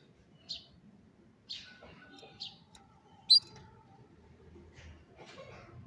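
Domestic canary giving a string of short, separate chirps about a second apart, one much louder chirp a little past the middle.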